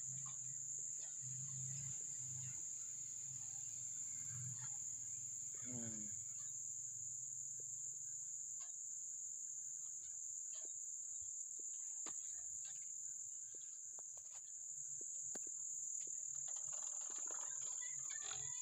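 Crickets chirring as a steady high-pitched drone, with scattered light clicks and taps throughout and a short rising call about six seconds in.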